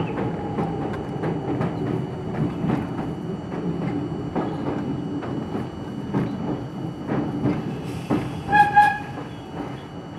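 R42 subway train running, heard from inside the car, its wheels clicking over rail joints, with a whine at the start falling in pitch. Near the end comes a short, loud horn sound, two quick toots, and the train noise then eases off.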